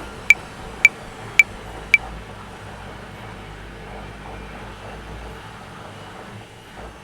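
Metronome clicking at 110 bpm, four clicks in the first two seconds that close a 5/4 bar, then stopping. Underneath, a washing machine's steady running drone carries on throughout.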